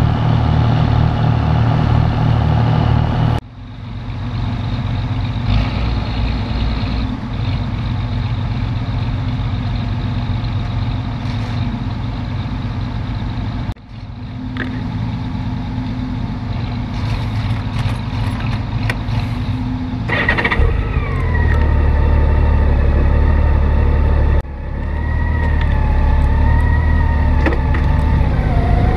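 Touring motorcycle engine running steadily, then pulling away under load with a heavier rumble and a wavering whine over it in the last seconds. The sound breaks off abruptly three times and picks up again.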